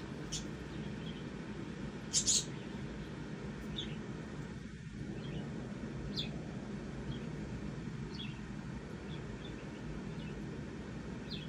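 Scattered short, high bird chirps, with a brighter cluster of them about two seconds in, over a steady low background hum.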